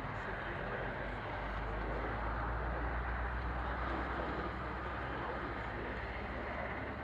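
Aircraft engine noise, steady and fairly faint, with a strong low hum and no sharp changes.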